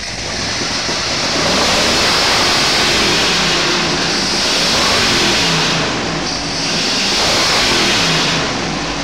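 A 1968 Ford 427 FE side-oiler big block, stroked to 482 cubic inches and fitted with mufflers, revved on an engine stand. It climbs in the first second or so and is held high for several seconds, eases off briefly, revs up again, and drops back near the end.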